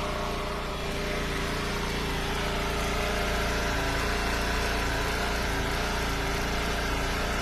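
Gas engine of a hydraulic wood splitter running steadily, a little louder after about a second.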